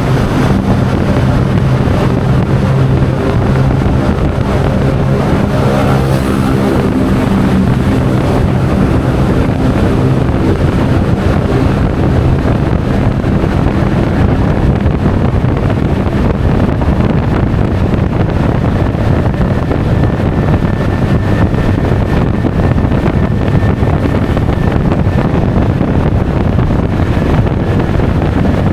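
Honda Forza 350 scooter's single-cylinder engine running at road speed, under heavy wind noise on the action camera's microphone. The engine's hum is clearest in the first third, after which the wind noise dominates.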